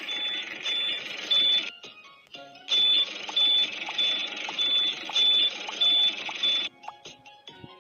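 Repeated short high electronic beeps, about two a second, over busy background music. The sound breaks off for about a second near two seconds in and stops shortly before the end.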